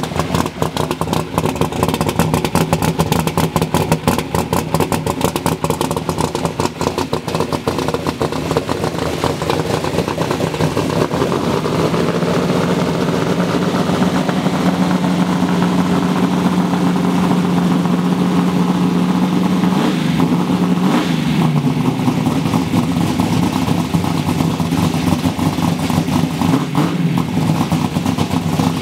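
Twin-turbocharged drag-race Mustang engine running steadily at idle, with a brief shift in pitch about two-thirds of the way through.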